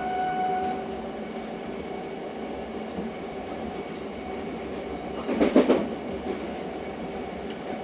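Inside a moving electric passenger train: the steady running noise of wheels on rail with a faint hum. About five and a half seconds in, a brief louder rattle.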